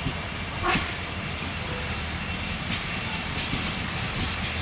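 Indian Railways passenger coaches rolling past close by: a steady rumble of wheels on rail, with irregular sharp clacks as the wheels cross rail joints and a high hiss that swells and fades.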